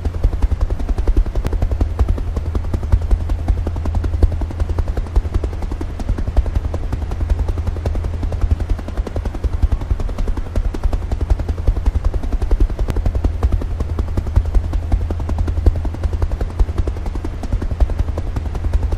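Helicopter running, its rotor blades giving a rapid, steady chop over a deep low drone.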